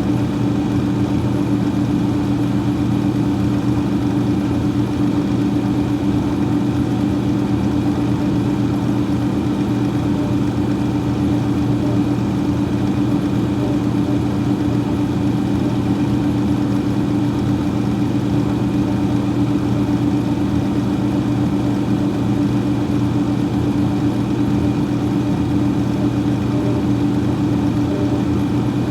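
Freezer fan running steadily: a constant hum made of several fixed low tones over a soft, even rush of air, with no change in speed.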